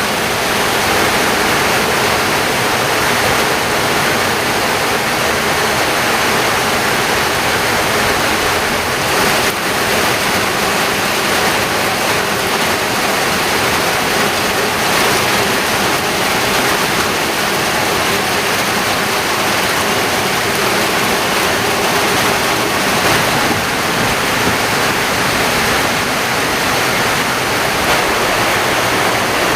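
Heavy rain pouring down steadily, a dense even hiss of water.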